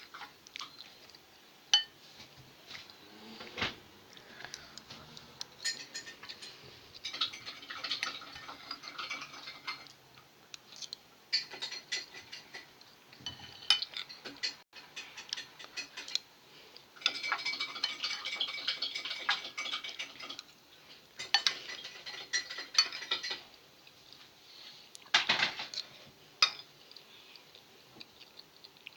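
Dishes and cutlery clinking and knocking on a kitchen counter, with several stretches of rapid clinking and single sharp knocks between them.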